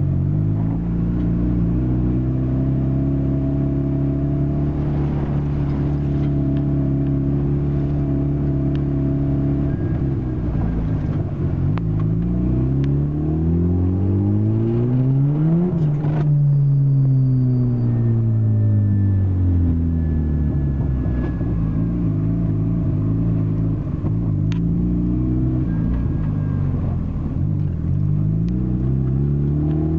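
Turbocharged Nissan SR20DE four-cylinder engine running steadily, then climbing in revs and falling away again about halfway through. Brief faint high whistles come now and then, the most after the revs drop, from a recorder fitted to the blow-off valve.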